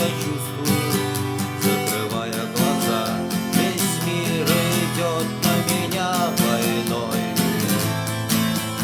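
Nine-string 1978 Lunacharsky-factory acoustic guitar strummed in a steady rhythm, an instrumental passage between sung lines.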